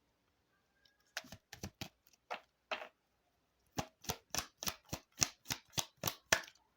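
A deck of cards being shuffled by hand: a few scattered card snaps, then from about four seconds in a steady run of crisp slaps, about three a second.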